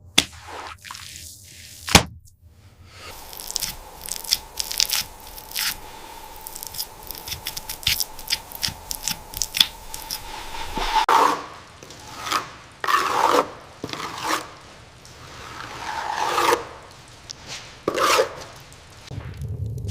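Scraping and rubbing from hand work: first a run of quick sharp clicks and ticks, then from about halfway on several louder, longer scrapes a second or two apart.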